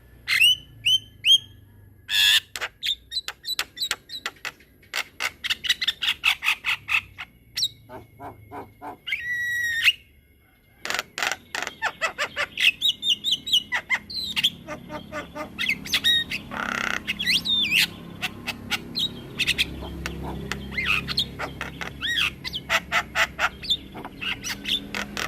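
Javan myna singing a long rolling song: runs of rapid repeated chattering notes, several a second, mixed with whistled slides and squawks. There is a brief pause about ten seconds in.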